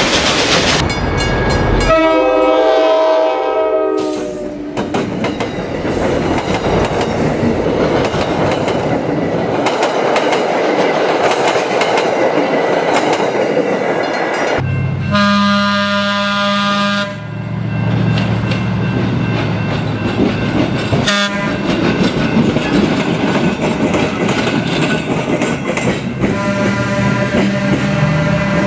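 Recorded real-train sound: a train horn blows three times, about two seconds each, near the start, about halfway and near the end. Between the blasts a rolling train rumbles and clatters over the rails.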